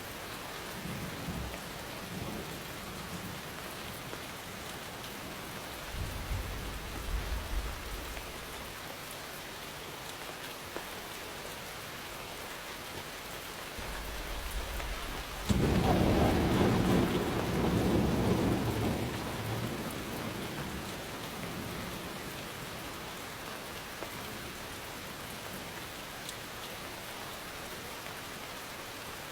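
Steady rain falling, with thunder rumbling: a low roll about six seconds in, and a louder clap near the middle that starts suddenly and rumbles away over several seconds.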